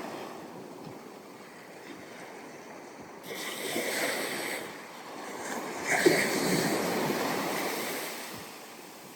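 Ocean waves breaking and washing up a sandy beach, with a surge about three seconds in and a louder one about six seconds in that dies away near the end.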